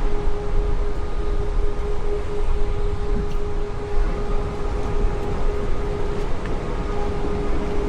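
Car driving along a road: steady tyre and engine rumble with a constant hum over it.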